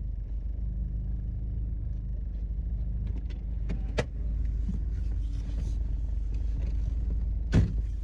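A car heard from inside the cabin, with a steady low rumble of engine and road. Two sharp clicks or knocks sound, about four seconds in and again near the end.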